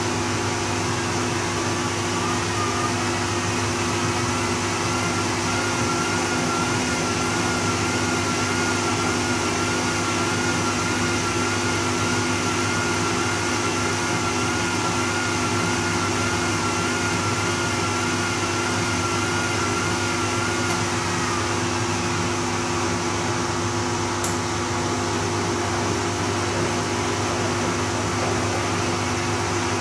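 Bosch Serie 2 Vario Perfect washing machine running steadily through its Silk programme, with a constant motor hum and a thin wavering whine that fades out about two-thirds of the way through.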